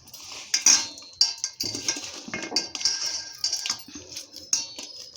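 Metal kitchenware clinking and knocking: a quick run of light metallic clinks with short high rings, as the warm besan laddu mixture is scooped and handled.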